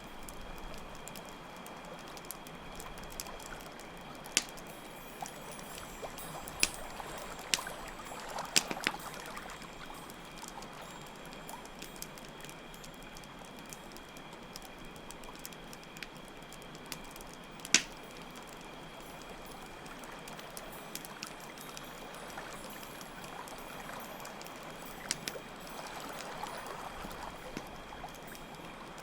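Layered night ambience: steady running water with a campfire giving sharp crackling pops every few seconds, over a continuous high chirring of crickets.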